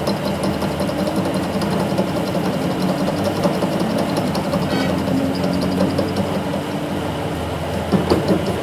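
Workshop machinery running steadily with a rhythmic knocking, and a few sharper metal knocks near the end.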